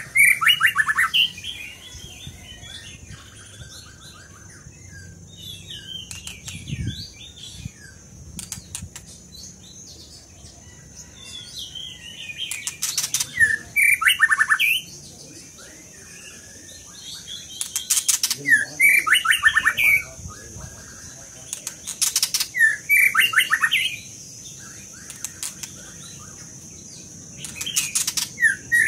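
Caged songbird singing in repeated bouts of loud, rapid trilled phrases separated by pauses of several seconds, with sharp clicks in between.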